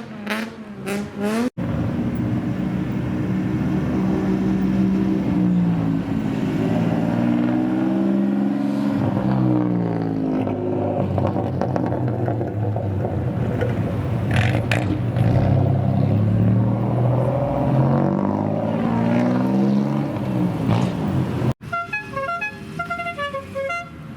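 Engines of modified old Japanese cars (kaido racer style) revving loudly, the pitch climbing and falling again and again in long sweeps. After a sudden cut near the end comes a short run of stepped beeping tones.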